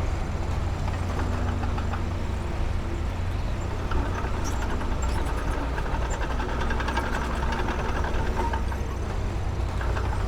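Heavy diesel engine of earthmoving machinery running steadily with a deep rumble, with light clatter from about four seconds in.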